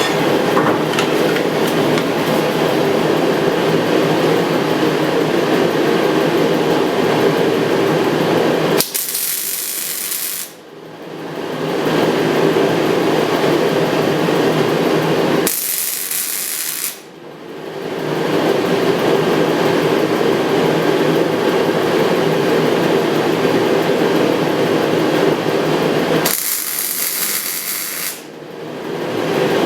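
A power tool runs loudly on steel, dropping away and building back up three times.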